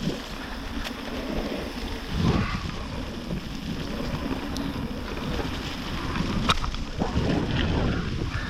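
Wind buffeting the microphone and tyres rolling over a wet trail as a mountain bike is ridden, with a few short knocks and rattles from the bike.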